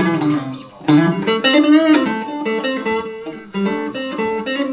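Van Zandt Telecaster electric guitar through a Roland JC-120 amp, playing a blues fill of picked single notes with bent notes between sung lines.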